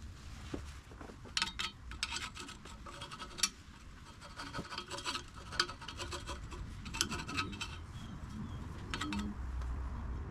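Irregular scraping and rasping strokes of a hand tool on metal, typical of filing or scraping old gasket sealant off an exhaust flange face. A low steady rumble runs underneath.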